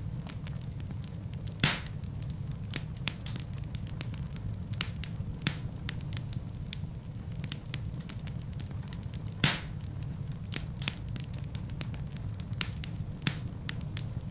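Wood fire crackling in a fireplace: a steady low rumble of flames with frequent sharp pops. Two louder pops stand out, one near the start and one about two-thirds of the way through.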